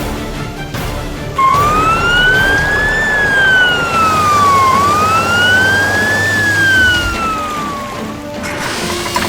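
Emergency vehicle siren wailing, its pitch rising and falling slowly twice, starting about a second and a half in and fading out near the end, over background music.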